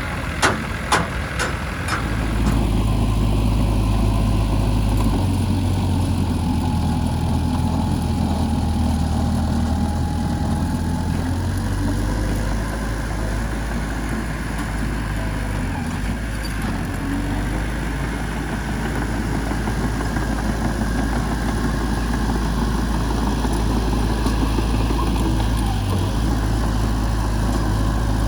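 Heavy diesel engine running steadily at low speed, with a few sharp knocks in the first two seconds.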